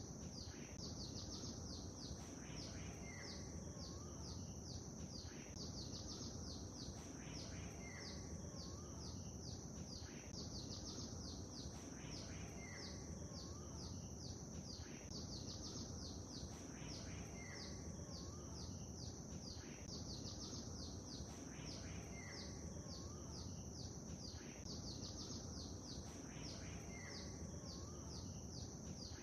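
Small birds chirping and singing over a steady low background hiss, with a continuous thin high buzz. The same short call phrases come back about every four and a half seconds.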